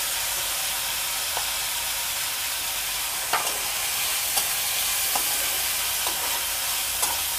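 Onion, spring onion and crushed garlic sizzling steadily in hot oil in a kadai. A metal spatula stirring them clicks against the pan now and then.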